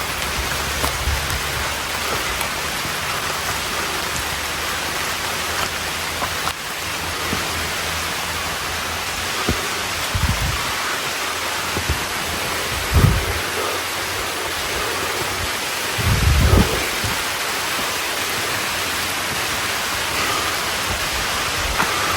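Steady hiss of rain falling. Three short low thumps come about 10, 13 and 16 seconds in.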